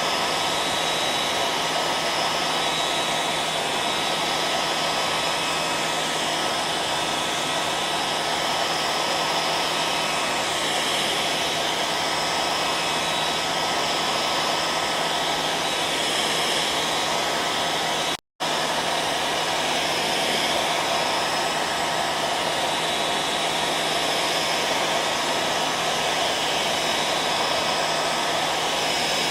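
Hair dryer running steadily: a constant blowing noise with a faint steady hum in it. It drops out for a split second about eighteen seconds in, then carries on unchanged.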